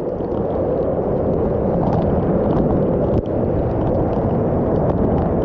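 Steady rush of a waterfall, water pouring heavily close by.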